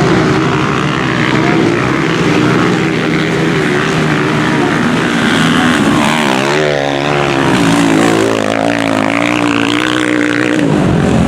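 Small single-cylinder four-stroke motorcycle engines of CG-class race bikes running hard, revving up and down with the gear changes. About six seconds in, the pitch of a bike sweeps up and down in a quick wavering run.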